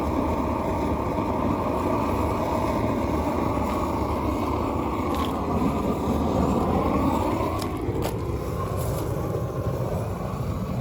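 Flame-thrower torch burning steadily with a continuous rushing noise as it heats a faded plastic bumper to restore its colour.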